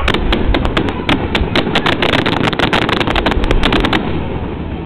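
Fireworks display: a rapid, irregular barrage of sharp bangs and cracks from aerial shells bursting, several a second, thickest in the middle, over a low rumble.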